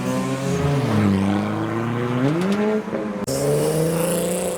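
Car engine pulling away: the engine note dips, then rises as it revs up about two seconds in. The note breaks off briefly a little after three seconds, then holds steady.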